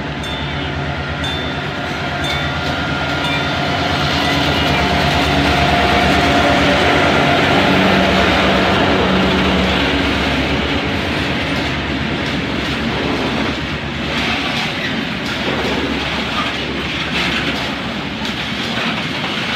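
A diesel locomotive runs past, its engine loudest a few seconds in. It is followed by a long train of open freight wagons rolling by, with wheels clicking and clattering over the rail joints. A high, regularly repeating beep fades out in the first few seconds.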